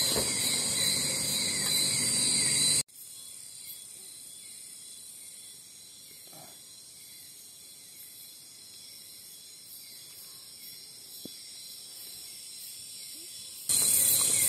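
Night-time rainforest insect chorus: crickets and other insects trilling steadily at a high pitch. It drops abruptly in level about three seconds in and comes back up near the end.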